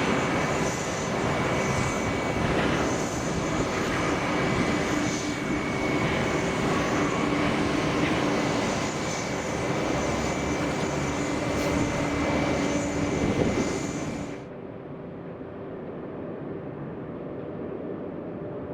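Jet airliner engines running loud and steady, with a whining tone over the rush of noise. The sound cuts off abruptly about fourteen seconds in, leaving a quieter, duller steady noise.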